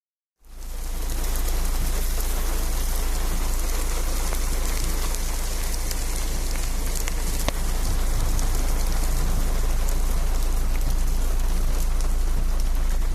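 Steady, heavy rain, with a deep low rumble underneath. The sound fades in about half a second in, and one sharp drop-like tick is heard about halfway through.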